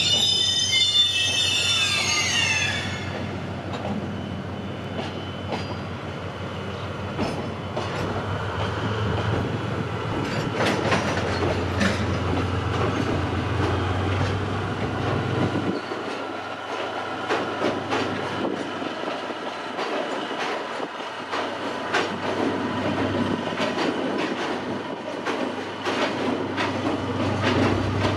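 A JR Freight DF200 diesel-electric locomotive hauls a train of tank wagons across a steel railway bridge. It opens with a high squeal that falls in pitch over the first few seconds. The locomotive's engine drone builds and is loudest in the middle. After that the wagons' wheels knock steadily over the rail joints.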